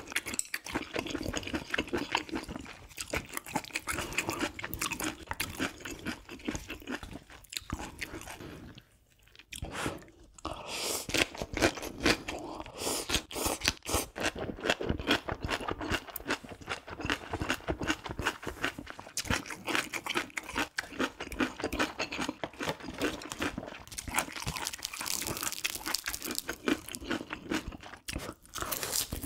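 A person chewing and crunching food close to the microphone: dense, irregular wet mouth sounds. There is a short pause about nine seconds in, and the bites are louder a couple of seconds later.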